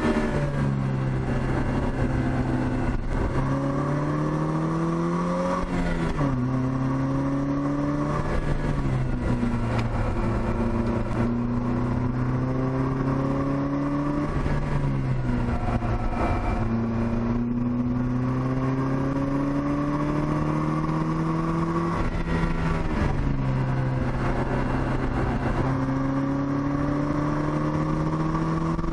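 Opel Speedster's 2.2-litre four-cylinder engine pulling under throttle, heard from inside the cockpit. Its pitch climbs slowly and drops sharply three times, about six, fourteen and twenty-three seconds in.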